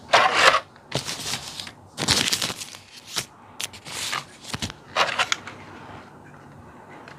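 Clear plastic blister tray crackling and clicking in a run of short bursts as it is gripped and lifted, going quiet for the last second or so.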